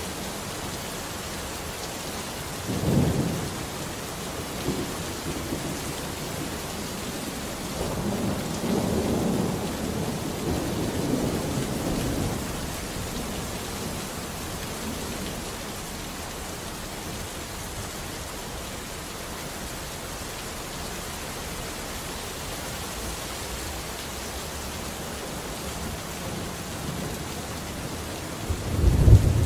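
Steady rain falling, with low rumbles of thunder: a short one about three seconds in, a longer roll a few seconds later, and a louder one building near the end.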